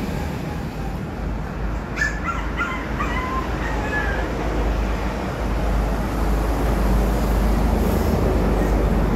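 A few short bird calls, crow-like caws, about two seconds in, over a steady low rumble that grows louder in the second half.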